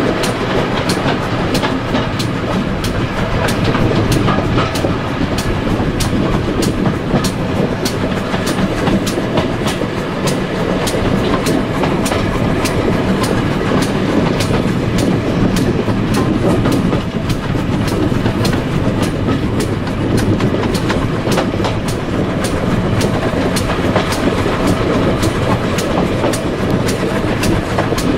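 Passenger coach running along the line, heard from its open window: a steady run of rapid, even clicks as the wheels pass over the rail joints, over a continuous rumble of running noise.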